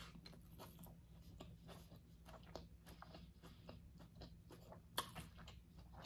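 A person chewing a mouthful of bunless burger close to the microphone: faint, wet, clicky mouth sounds, with one louder click about five seconds in.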